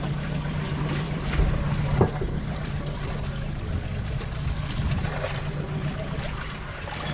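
Small fishing boat at sea: a steady low motor hum under wind and water noise, with one sharp knock about two seconds in.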